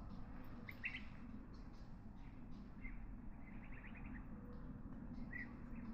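Faint, short bird chirps at scattered moments, one a quick run of several, over a low steady background hum.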